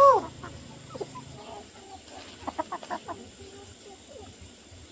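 Chickens clucking: one loud squawk that rises and falls in pitch at the start, then a quick run of short clucks a couple of seconds in.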